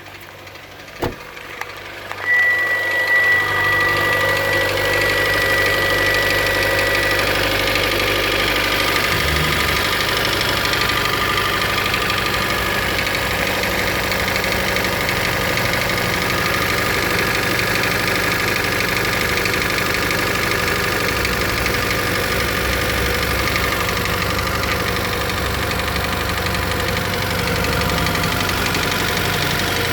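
A 2013 Hyundai Elantra's 1.8-litre four-cylinder engine starts about two seconds in and then idles steadily with piston slap, which the dealer calls normal in cold weather. A steady high tone sounds for several seconds just after the start.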